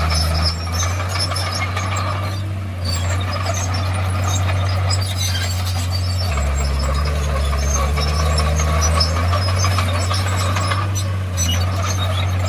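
Crawler bulldozer's diesel engine running steadily under load, its low drone changing pitch about half a second in and again midway, with light high-pitched clatter and squeaks over it.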